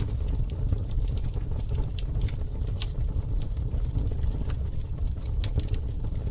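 Campfire burning: frequent sharp crackles and pops of burning wood over a steady low rumble.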